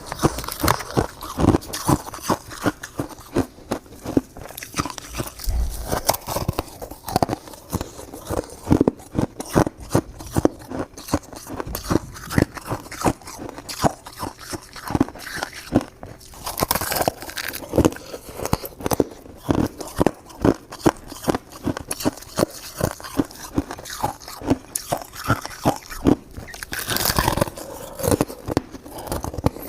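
A person biting and chewing crunchy ice close to the microphone: rapid crisp crunches, several a second, keeping on steadily.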